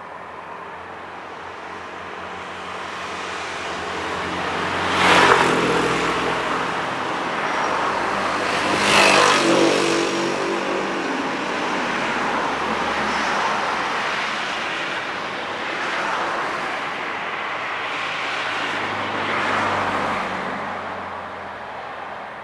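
Passenger train passing at speed: the rolling noise builds as it approaches, is loudest around five and nine seconds in, then carries on with the coaches rolling past in gentle swells, easing off near the end.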